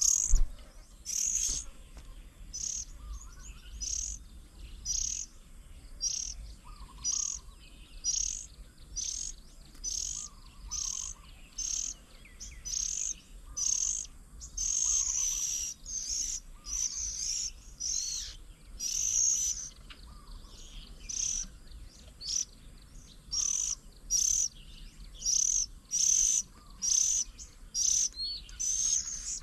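A bird calls over and over with short, high, harsh notes, roughly one to two a second. Another bird gives faint, lower chirps now and then.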